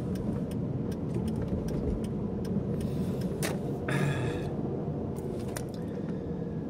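Steady low rumble of a car's cabin on the move, with scattered light clicks and rattles and a brief louder noise about four seconds in.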